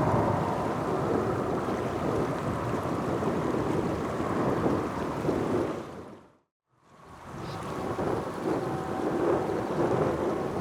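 Jet airliner engine noise, a steady rumbling roar that cuts out for under a second about six and a half seconds in, then swells back.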